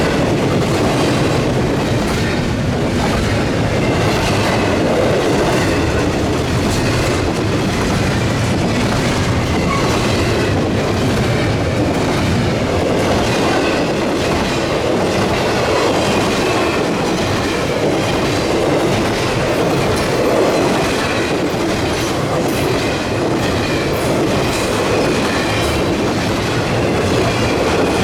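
A CSX intermodal freight train's cars rolling past in a steady, loud rumble, the wheels clicking over rail joints, with a faint wheel squeal.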